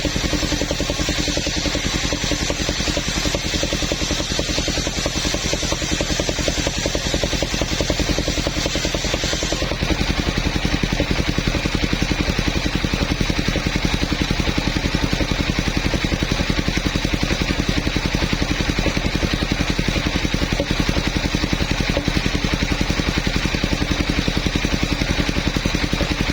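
Engine of a mobile sawmill running steadily with a rapid, even pulse; a higher hiss above it drops away about ten seconds in.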